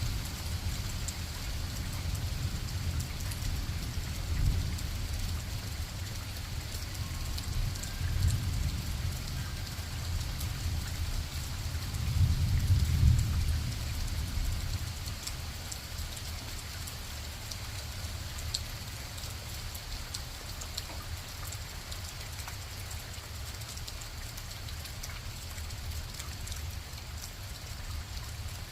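Steady rain with scattered drop taps. Under it a low rumble swells several times in the first half, loudest about twelve to fourteen seconds in, then eases off.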